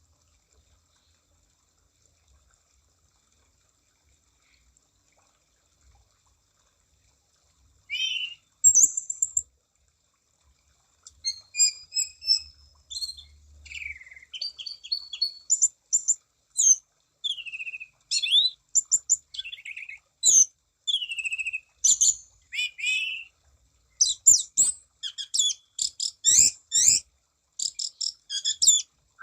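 Anis cendana thrush (orange-sided thrush) singing in full voice: after a pause of several seconds, a long varied song of quick whistles, trills and chattering notes, growing denser toward the end.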